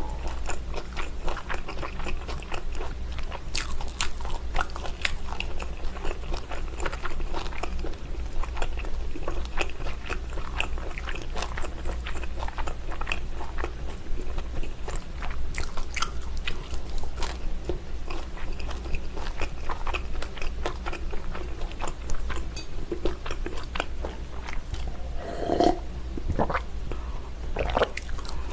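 Close-miked chewing of braised pig's trotter (jokbal): a continuous run of small wet clicks and smacks from the mouth.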